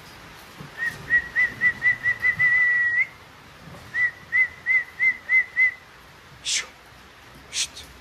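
A person whistling a run of short notes, about four a second, that slur into one held note lifting at its end, then after a pause a second run of six short notes. Two short sharp sounds follow near the end.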